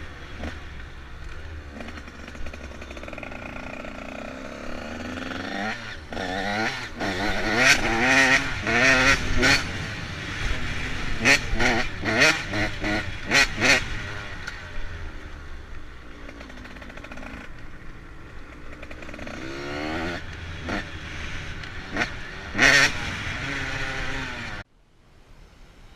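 Motorcycle engine revving hard and repeatedly, its pitch climbing and dropping as the bike accelerates and backs off, with many sharp loud spikes along the way. The sound cuts off abruptly near the end.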